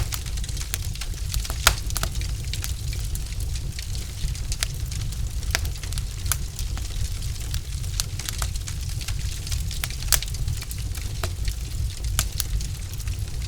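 Wood fire in a fireplace crackling: irregular sharp pops and snaps from the burning logs, one stronger pop about two seconds in, over a steady low rumble.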